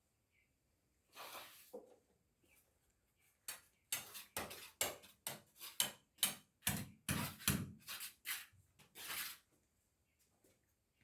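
Metal tools clattering and scraping in a quick, irregular run of sharp strokes, about two a second, that starts a few seconds in and stops shortly before the end.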